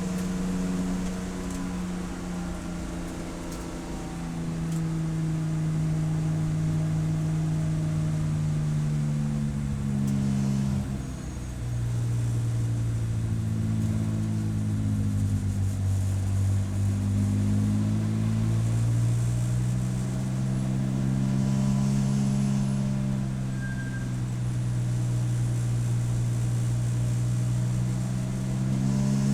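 Race car engine running at track speed, its pitch rising and falling slowly as it goes through gears and corners, with a brief drop in level about eleven seconds in.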